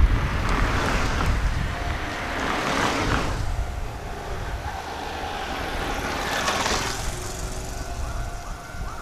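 Kotoden 600-series electric train approaching at low speed: a steady low rumble of wheels and motors that swells twice. A thin, high squeal, typical of brakes as the train slows for the station, sets in near the end.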